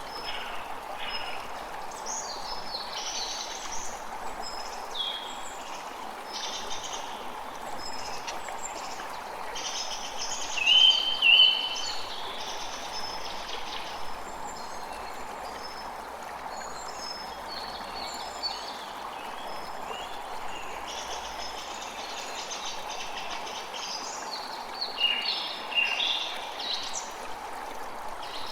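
A creek running steadily, with many songbirds chirping and calling over it. Two louder bird calls come about ten to eleven seconds in, and another flurry of calls comes near the end.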